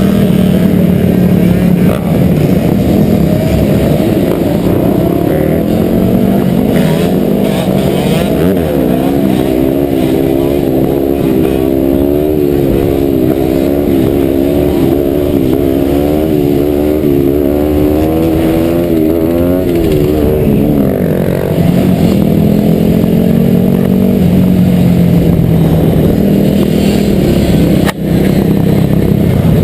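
Dirt bike engines running continuously, their note climbing and wavering as they rev and hold higher revs through the middle stretch, then settling back to a lower, steadier note.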